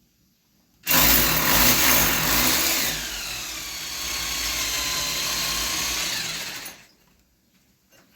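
Electric power tool running for about six seconds. It starts suddenly, is loudest for the first two seconds, then runs a little lower and steadier before cutting off.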